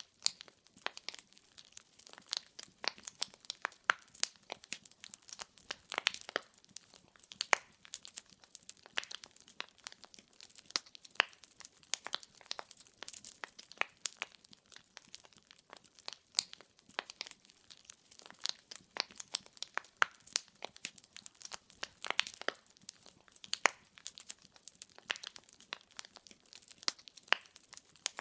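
Wood fire crackling in a fireplace: logs burning with a dense, irregular run of sharp pops and snaps over a faint hiss.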